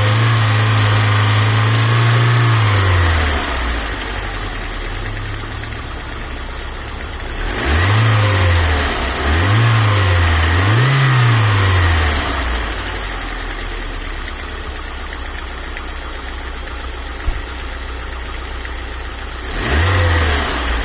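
Car engine idling and being revved: one held rev at the start, three quick blips in a row about eight to twelve seconds in, and a short blip near the end, settling back to idle between them. The engine has hydraulic lifter knock, which the owner finds does not depend on oil pressure.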